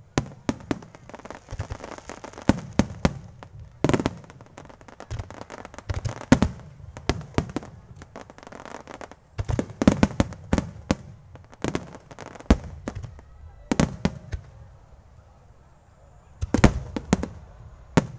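Aerial firework shells bursting in a fireworks display: an irregular series of loud bangs, often several in quick succession, with smaller pops between.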